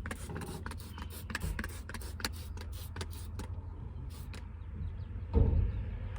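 Window tint film being handled, crackling and clicking in quick irregular snaps for the first few seconds, then going quieter, over a low steady hum. One loud thump comes about five and a half seconds in.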